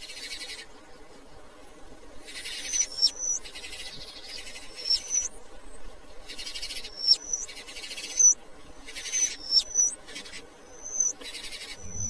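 A bird calling again and again: short, sharp, high whistled notes, each stepping down in pitch and coming with a burst of hiss, about a dozen of them at roughly one a second.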